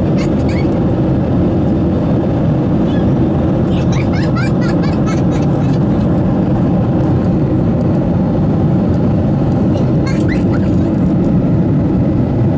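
Steady cabin rumble of an Airbus A320-214, heard from inside the passenger cabin: CFM engine and airflow noise running without a break.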